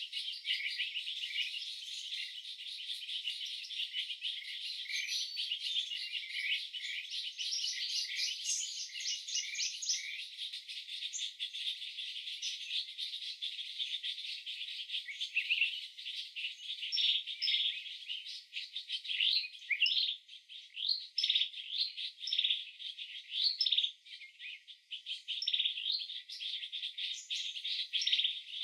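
Birds chirping and calling over one another in a dense chorus, thinning after about halfway into separate, spaced chirps.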